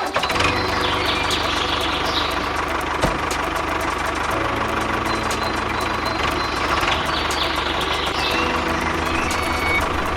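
A vehicle engine running steadily at idle, with a rapid even patter of firing.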